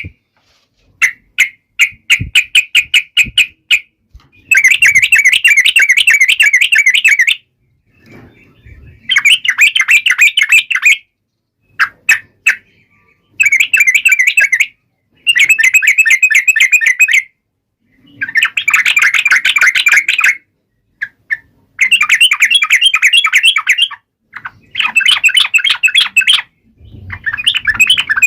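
Sooty-headed bulbul (trucuk) singing loudly in bursts of rapid chattering notes, each burst a couple of seconds long with short pauses between.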